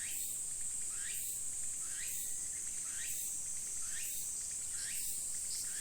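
Insects chirring in a continuous high-pitched trill, with a short rising call repeating about once a second.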